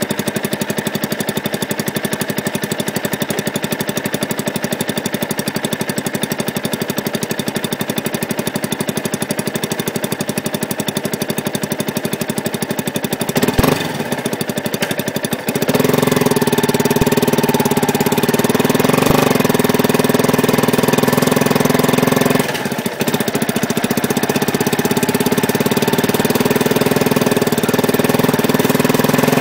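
Yamaha YZF-R125's single-cylinder four-stroke engine idling with an even pulsing beat, heard from a microphone fixed under the bike. About fifteen seconds in, the note gets louder and steadier and holds there, with a brief dip a few seconds before the end.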